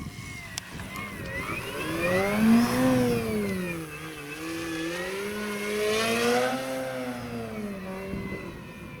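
Electric RC airplane's motor and propeller whining in flight. Its pitch swings up and then down twice as it passes, loudest about two and a half seconds in and again around six and a half seconds, fading near the end.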